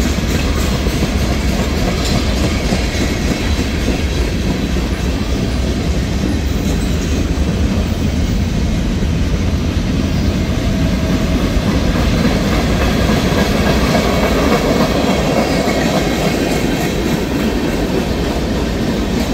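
Norfolk Southern freight train's cars passing close by: steady noise of steel wheels rolling on the rails.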